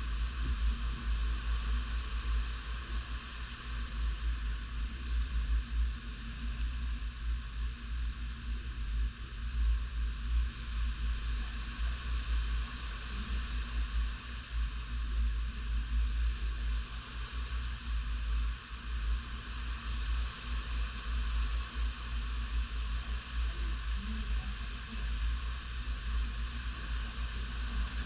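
Tropical-storm wind gusting, buffeting the microphone with an uneven low rumble over a steady rushing hiss.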